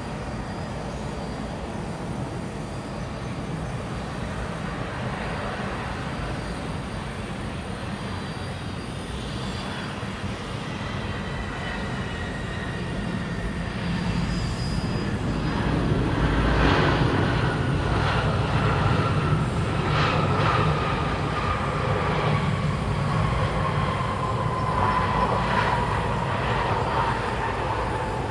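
Jet airliner passing: engine rumble building to its loudest about two-thirds of the way through, with an engine whine that falls steadily in pitch as the aircraft goes by.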